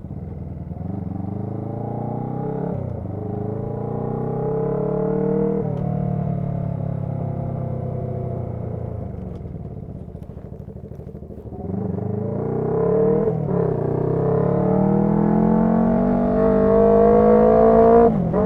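Motorcycle engine pulling through the gears. Its pitch climbs and drops sharply at each upshift, twice early on; it runs quieter in the middle while the rider eases off, then climbs through two more shifts, the last near the end.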